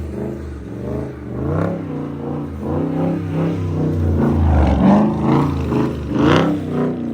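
Dodge Scat Pack's 6.4-litre HEMI V8 revving, its pitch rising and falling repeatedly, with a strong surge about five seconds in and another near the end.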